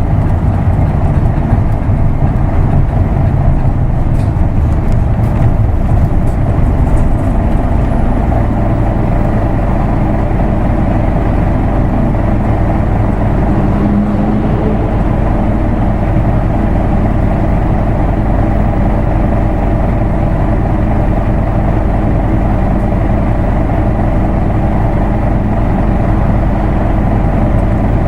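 Diesel engine of an Isuzu Erga Mio manual-gearbox bus running, heard from inside the bus. About eight seconds in, the low engine sound drops back and settles into a steady, even note.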